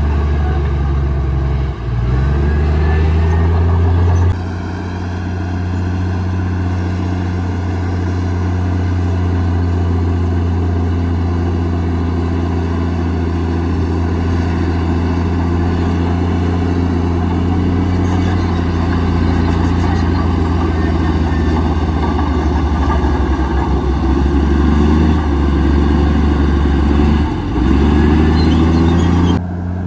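Komatsu D58E bulldozer's diesel engine running steadily while working, its note dipping briefly about two seconds in and again near the end.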